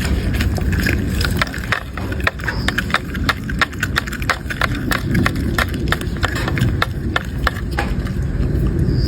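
Dog chewing food, with crisp, irregular crunches several times a second over a steady low rumble.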